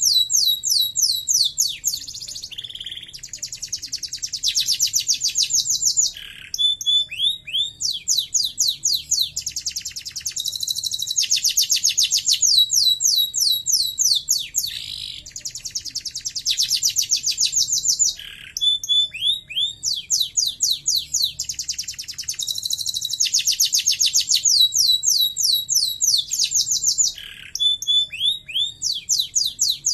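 Domestic canary singing a long song of fast, high trills, each phrase a rapid run of repeated notes, switching to a new trill every second or two with brief pauses between.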